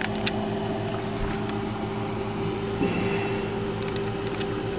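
A steady machine hum with a low held tone, with a few light clicks and taps.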